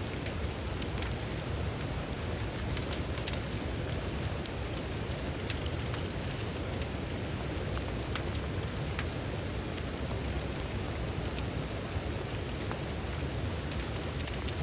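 Heavy rain falling steadily, with scattered sharper hits of individual drops.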